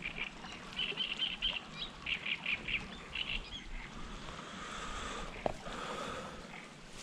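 A bird calling in quick runs of short, high chirps, several runs over the first three seconds or so.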